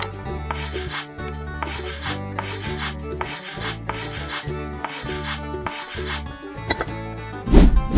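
Repeated rasping strokes, about two a second, like a tool rubbing back and forth on a hard surface, over background music. A loud low thump comes near the end.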